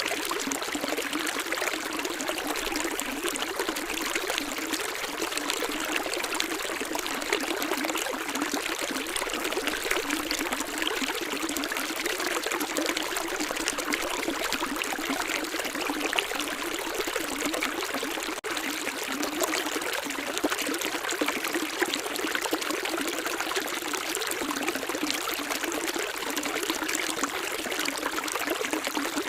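A shallow stream flowing and trickling steadily, a constant bright rush of water with almost no low rumble. There is one brief dip about eighteen seconds in.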